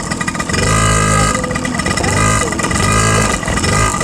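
Small motorcycle running as it is ridden, with a steady whine and a motor note that swells and eases about four times.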